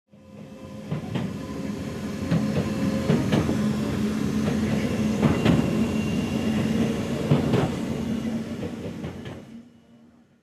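A train running, heard from inside the carriage: a steady rumble and hum with a sharp click every two seconds or so as the wheels pass rail joints. It fades in at the start and fades out near the end.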